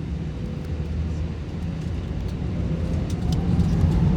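Airbus A380's four Rolls-Royce Trent 900 engines spooling up for takeoff, heard from inside the passenger cabin: a deep steady rumble growing louder, with a whine rising in pitch near the end.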